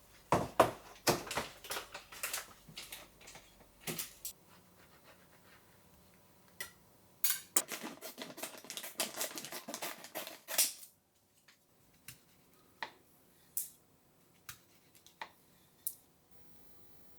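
Clicks, taps and light clatter of kitchen utensils and tableware being handled during food preparation. The sounds come in two dense runs, then as a few single ticks spaced about a second apart near the end.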